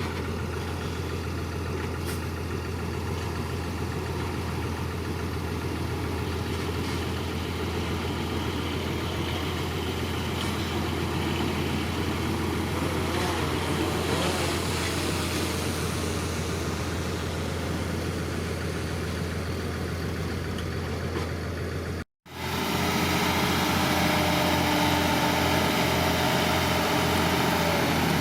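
Diesel engine of heavy earthmoving machinery running steadily, with a low drone. About 22 seconds in, the sound cuts out briefly and picks up again as a slightly louder steady engine hum with a few held tones.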